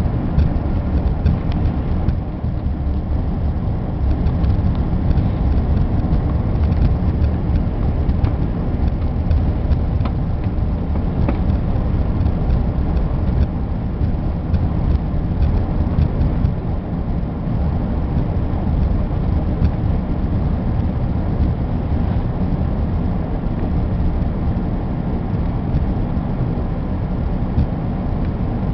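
Steady low rumble of an airliner's cabin while it taxis after landing: engine and rolling noise with no sharp events.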